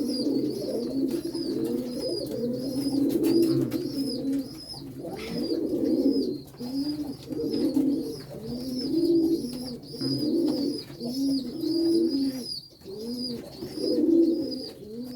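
A flock of domestic pigeons cooing, many overlapping coos one after another. A thin high peep repeats about twice a second over them.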